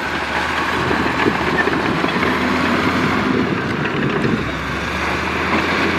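Diesel engine of a heavy earthmoving machine running steadily, with a constant mechanical rattle over the engine hum.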